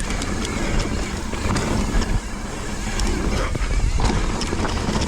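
Wind rushing over the microphone while a mountain bike rolls fast over a dirt trail, with tyre noise and scattered clicks and rattles from the bike.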